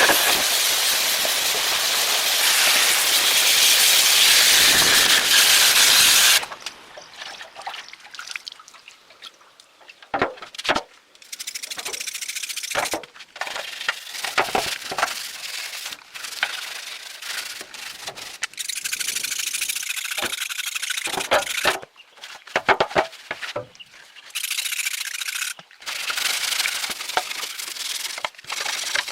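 Workshop restoration work on metal: a loud, steady hissing tool noise that cuts off suddenly about six seconds in, then uneven hand rubbing or scraping strokes with clicks and knocks.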